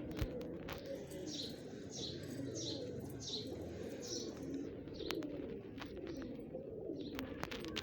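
Pigeons cooing in low, overlapping calls throughout. A small bird gives five quick falling chirps starting about a second and a half in, and scattered light clicks sound among them.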